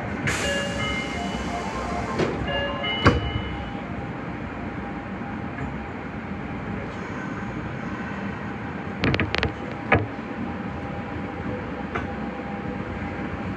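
Nagoya Municipal Subway 5050-series train running, a steady rumble of motors and wheels, with short high tones in the first few seconds and a few sharp clicks about two-thirds of the way through.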